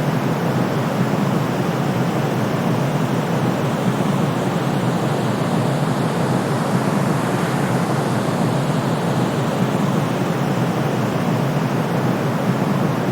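Steady, unchanging synthetic noise, deep and rumbly with most of its weight low and little hiss on top: a white-noise track played to soothe a colicky baby.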